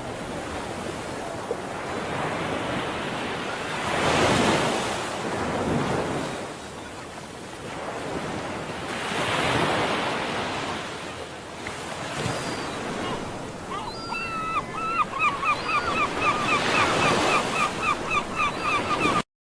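Ocean waves breaking and washing in, the surf swelling and fading every few seconds. In the last third a rapid run of short, high chirps repeats several times a second over the waves.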